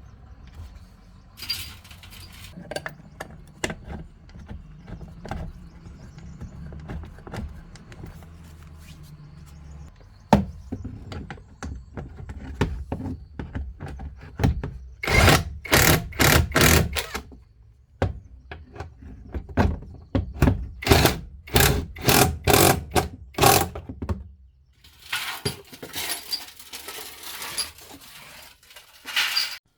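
Hand work on metal: tools knocking and clinking, with a low hum in the first third. Two runs of rapid back-and-forth scraping strokes come near the middle, and a spell of rasping scraping comes near the end.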